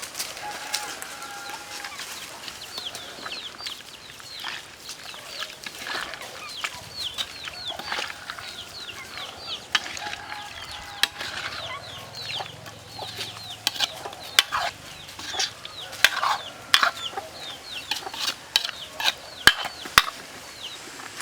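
Chickens clucking and peeping: many short, high calls that fall in pitch. Sharp knocks are scattered through, louder and more frequent in the second half.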